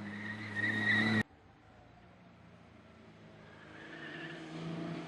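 Classic racing car engine running hard at a steady pitch, cut off abruptly about a second in. Then another car's engine grows steadily louder as it comes closer.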